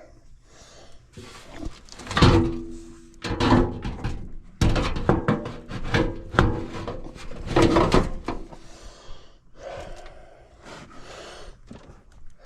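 Irregular knocks, clunks and scraping from hands-on work on an air handler's blower assembly, with a few brief ringing tones among the knocks.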